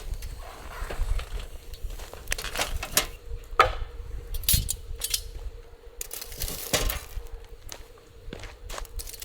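Wood fire crackling, with irregular sharp pops and snaps, a few of them loud, over a low rumble of wind on the microphone.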